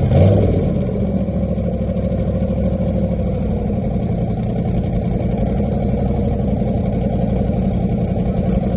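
Car engine coming down from a quick rev at the start and settling into a steady idle.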